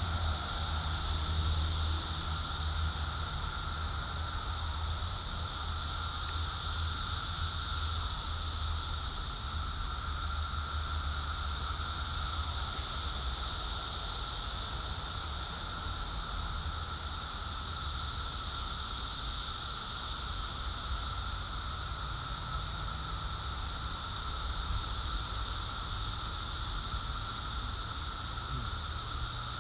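Dense chorus of Brood X periodical cicadas: a loud, continuous high buzz with a lower droning band beneath it. The chorus slowly swells and ebbs every five or six seconds.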